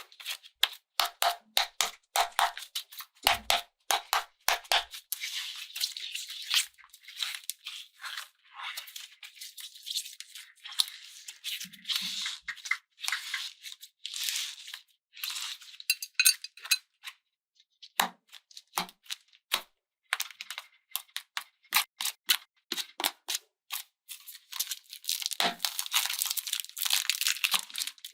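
Slime being pressed, squeezed and pulled by hand: a dense run of sticky crackles and snaps, with a short pause about two-thirds of the way through.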